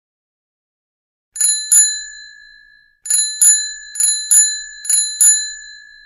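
Bicycle bell rung in four double rings: one pair, a pause, then three pairs about a second apart, each strike leaving a bright metallic ring that fades.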